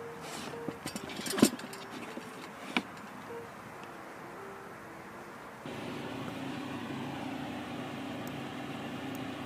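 Several clicks and knocks of handling, one sharper knock about a second and a half in. A little under six seconds in, a steady mechanical hum with a hiss switches on abruptly and keeps running.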